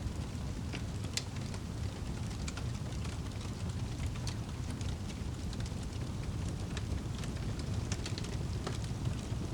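Wood fire crackling in a fireplace: a steady low rumble of flames with scattered sharp pops and crackles, several a second.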